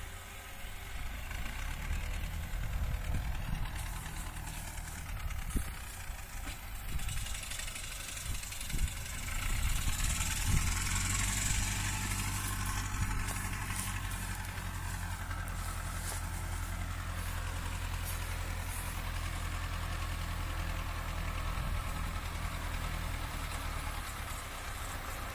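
Farm tractor with a rotary mower running steadily as it mows tall weeds, a low, even engine hum. A brighter hiss from the mowing swells for a few seconds about ten seconds in.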